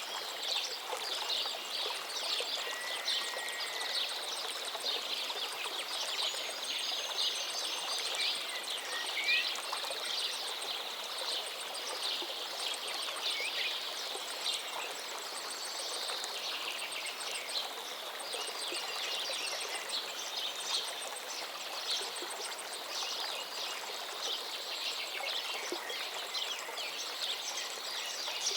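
A river flowing steadily, with many birds chirping and singing over it throughout; a few clear whistled notes stand out from the chatter.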